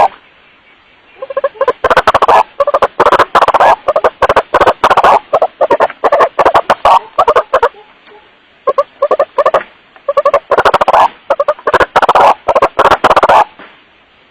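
White-breasted waterhen (kuruak) calling in rapid runs of harsh, repeated 'wak-wak' notes, played back loud enough to clip and distort. The calling comes in bouts, with a pause about a second in, another just past the middle, and a stop near the end.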